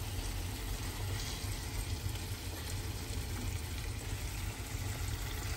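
Chicken pieces and potato wedges sizzling in an oily curry masala in a frying pan, a steady crackle over a low hum.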